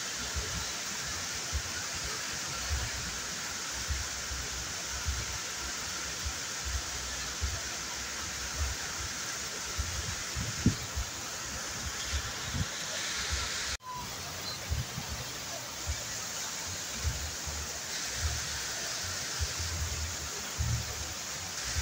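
Waterfall rushing steadily, a continuous hiss of falling and splashing water, with irregular low rumbles underneath. The sound drops out for a split second about fourteen seconds in.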